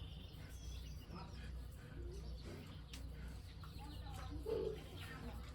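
Farm animals calling in short, scattered sounds, one more prominent near the end, over a steady low hum.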